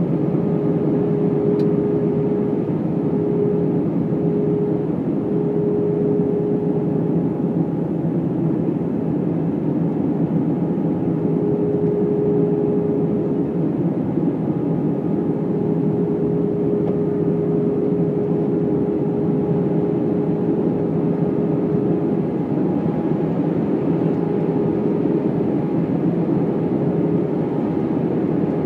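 Airbus A319 cabin noise in flight: the steady rush of engines and airflow, with a faint humming tone that fades in and out.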